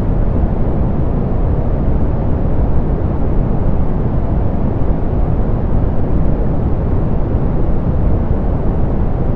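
Steady, unchanging soft pink noise, weighted toward the low end with little above a few kilohertz, like a deep, even hiss or rumble.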